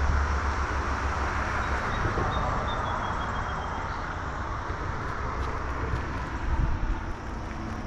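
Road traffic noise: a steady rush of tyres with a low rumble, a little louder in the first couple of seconds and then easing.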